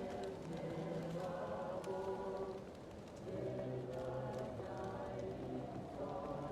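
A choir singing slow, sustained notes, muffled as if from another room, with a short lull between phrases about halfway through. Faint crackles and pops of a wood fire run underneath.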